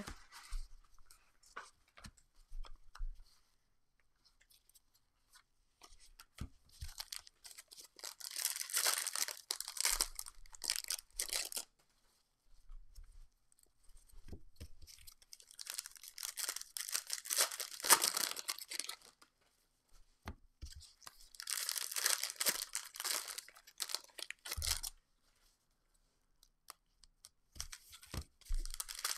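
Foil trading-card packs (2021 Topps Stadium Club Chrome) being torn open and their wrappers crinkled, in three spells of a few seconds each, with light clicks of card handling in between.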